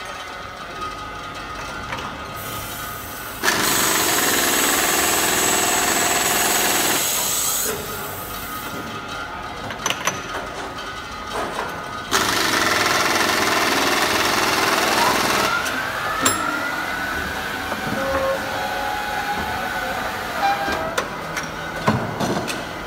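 CNC boring machine running, with two louder, noisier stretches a few seconds long and a rising whine partway through the second.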